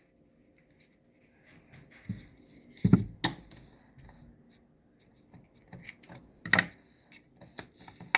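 Hands handling craft materials on a work surface: quiet rustling and scraping with a few sharp clicks or knocks, the loudest about three seconds in and again about six and a half seconds in.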